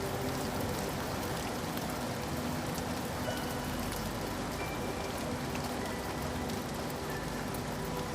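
Steady rainfall, an even, unbroken hiss of drops.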